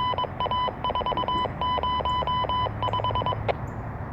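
Loud electronic beeping: one high pitched tone switched on and off in quick, irregular bursts, stopping about three and a half seconds in with a sharp click.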